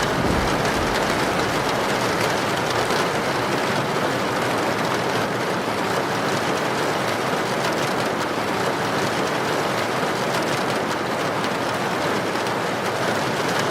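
Heavy rain falling steadily: an even, dense hiss of downpour with fine patter throughout.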